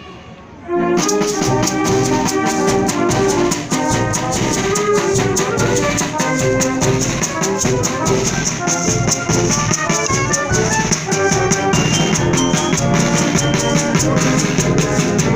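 Symphonic wind band playing: after a short pause, the full band comes in about a second in with brass and a fast, driving percussion beat.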